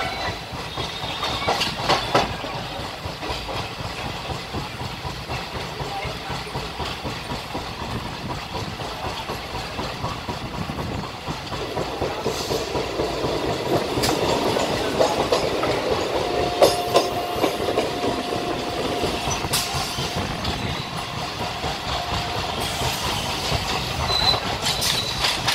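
Moving train heard from on board: steady rumble of the wheels on the track with clickety-clack over the rail joints. A faint steady whine runs for a few seconds past the middle.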